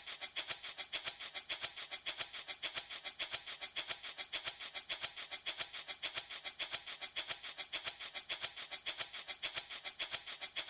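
Handmade wooden baby rattle shaken in a steady, even rhythm, several crisp, bright rattling strokes a second.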